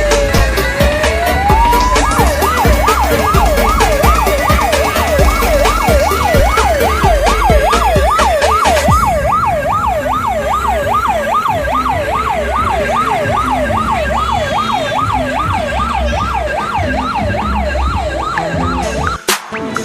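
Electronic siren wailing with one slow fall and rise in pitch, then switching about two seconds in to a fast yelp of about two to three sweeps a second, over a steady, heavy bass beat. It cuts out briefly near the end.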